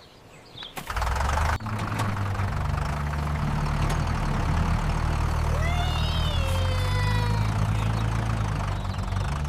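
A steady low engine-like hum starts about a second in and runs on. A little past the middle a short pitched call rises and then glides down.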